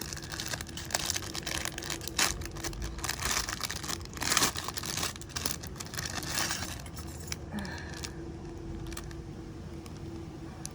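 Plastic packaging rustling and crinkling while small metal open-bezel charms clink and jangle as they are handled; the handling noise dies down about eight seconds in, leaving only a few clicks.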